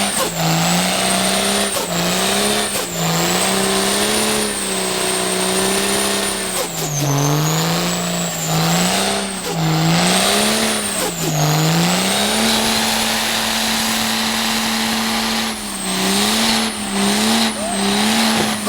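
Diesel truck engine held at high revs, with the throttle lifted and reapplied over and over so the pitch dips and climbs back about once a second. It holds steady for a few seconds in the middle, and a high whine rises and falls along with the engine.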